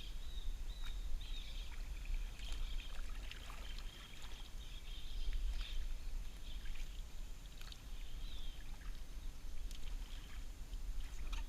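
Kayak being paddled: paddle strokes and water splashing against the hull, over a steady low rumble, with high wavering chirps in the background.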